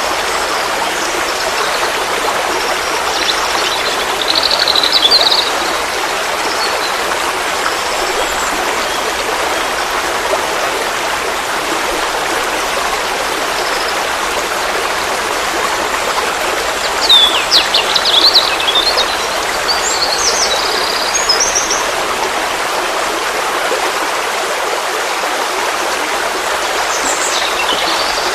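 Forest stream flowing with a steady rush of water, and songbirds chirping in short bursts of high calls about four seconds in, around seventeen to twenty-one seconds in, and near the end.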